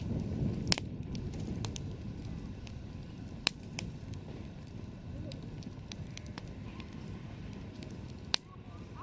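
Campfire crackling: a steady low rumble of burning wood with scattered sharp pops, the loudest about a second in, at around three and a half seconds, and near the end.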